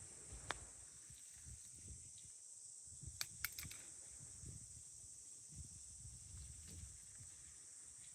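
Steady high-pitched drone of insects in roadside forest, with low wind rumble on the microphone and a few sharp clicks, one about half a second in and a quick cluster around three seconds in.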